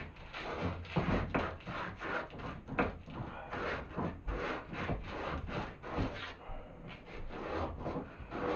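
Hand sanding with a piece of sandpaper, rubbed in short back-and-forth strokes a few times a second, smoothing a vise part so its knob will slide back on.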